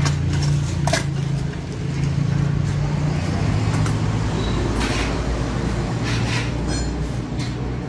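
A steady low engine hum, with a few brief hissing swishes over it.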